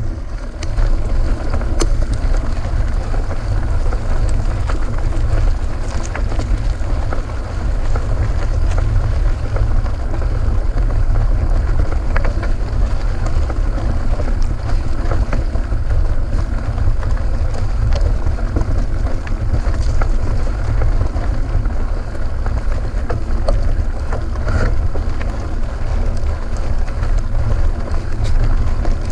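Steady wind rumble on a GoPro's microphone while riding a mountain bike, with small clicks and rattles from the bike scattered throughout.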